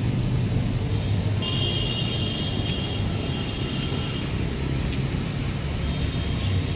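A running train's steady low rumble. Faint high-pitched squealing tones come in about a second and a half in and fade a few seconds later.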